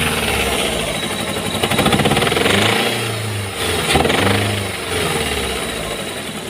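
Proton Saga BLM car engine running and being revved up and down several times, with the strange engine noise that the owner puts down to lost engine pressure.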